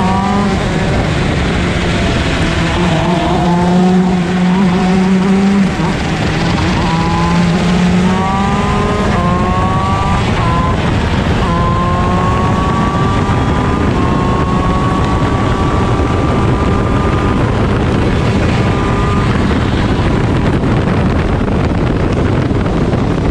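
Onboard sound of a CIK shifter kart's stock Honda 125 cc two-stroke engine accelerating hard: its pitch climbs in several sweeps, dropping back at each upshift, then holds a long, slow climb at high revs. Other engines and tyre and wind noise run underneath, with a steady low drone in the first few seconds.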